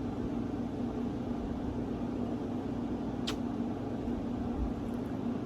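Steady low mechanical hum, like an air conditioner or appliance running, with one short click about three seconds in.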